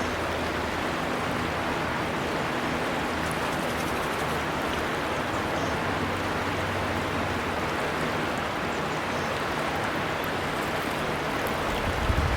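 River water flowing in a steady, even rush, with a few faint bird chirps now and then. A brief low rumble comes near the end.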